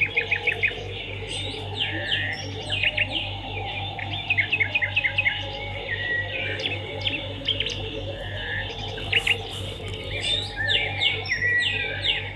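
Many swiftlets twittering: a dense, overlapping run of quick high chirps and trills, over a steady low hum.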